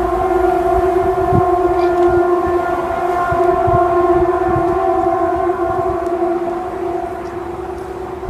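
A loud, steady horn-like drone holding a single pitch, easing off slightly near the end, over a low rumbling noise like wind.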